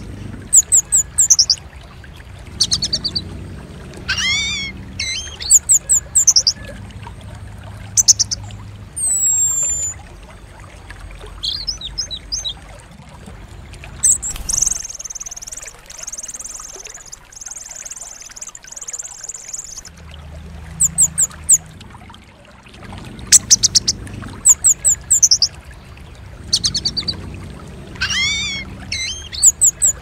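Orange-headed thrush (anis merah) song: runs of very high, sharp, quickly falling notes alternating with lower warbled phrases. A steady high buzzing trill runs for several seconds around the middle. A low rumble sits underneath throughout.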